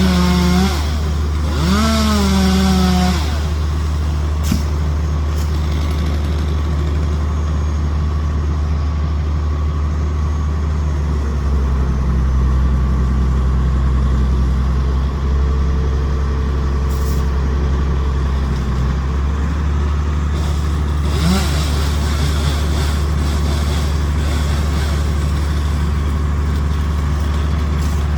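Bucket truck engine running steadily, speeding up for several seconds around the middle as the boom is worked. A short pitched sound comes near the start.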